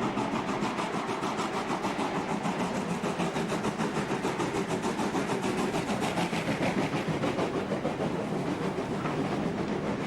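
Two steam locomotives, NSB types 30a and 18c, working hard up a steep 2.5% grade, their exhaust beats coming in a fast, even rhythm.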